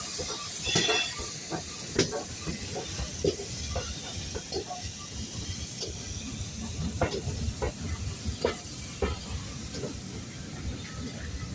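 Steam locomotive hissing steadily, with a low rumble and irregular metallic clanks and knocks.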